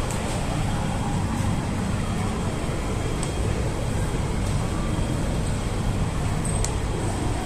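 Interior running noise of an MTR K-train moving slowly through a station, heard inside the carriage: a steady low rumble and hum with a few faint clicks.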